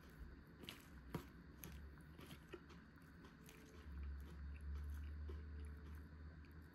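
Faint close-up chewing and biting of a crunchy choregi salad, with scattered small crunches and clicks. A low rumble from about four to six seconds in is the loudest part.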